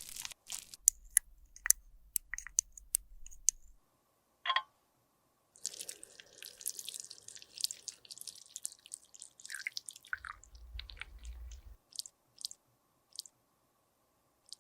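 Close-miked crunching and crackling of makeup being crushed and worked by hand, with sharp clicks, in short clips separated by brief silences.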